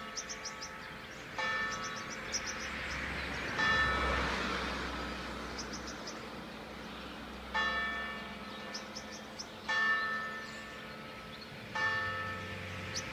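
Church bell tolling, five strokes roughly two seconds apart, each ringing on and fading. Small birds chirp in quick high runs between the strokes.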